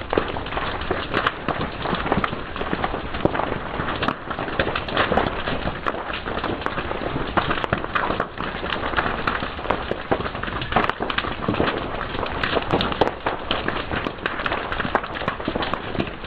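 Fire crackling and popping: a dense, irregular run of sharp pops and snaps over a steady hiss.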